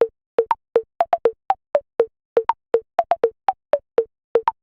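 A quick tune of short electronic blip notes, about four a second, hopping between a few pitches, each note dying away at once.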